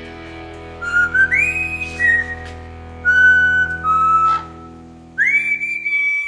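A pet bird whistling a tune in clear held notes, several of them swooping up into pitch, over a steady low hum. The audio cuts off abruptly just before the end.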